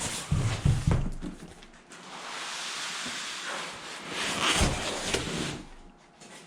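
Diesel heater being slid out of its cardboard box: a few knocks and bumps, then a long scraping rustle of cardboard and packing rubbing, with another knock near the end.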